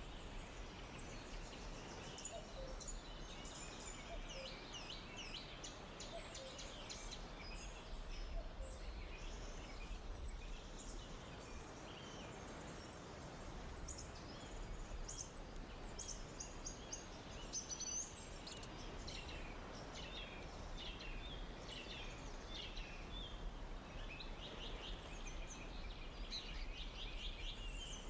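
Forest ambience: many small songbirds chirping and trilling in quick short phrases, over a steady low background hiss and rumble.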